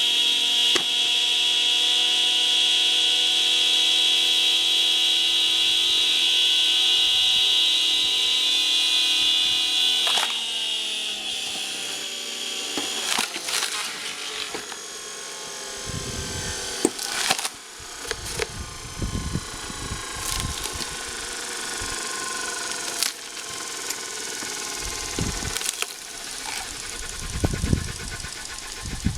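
Washing-machine motor of a screw cone log splitter running with a steady high whine; about ten seconds in the whine drops in pitch and level as the threaded cone bites into a birch log under load. Then come irregular sharp cracks and low thuds as the wood splits apart.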